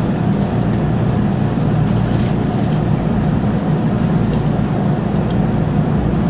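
Running noise heard inside a moving train carriage: a steady low rumble of wheels on rails and running gear, with a few faint clicks.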